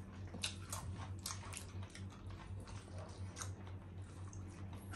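Two people chewing jumbo beef sausage and chicken nuggets close to the microphone: scattered wet smacks and clicks of mouths at work. A steady low hum runs underneath.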